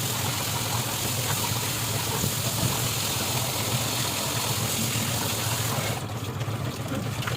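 Steady machine noise: a low hum under a broad hiss, the hiss dropping suddenly about six seconds in.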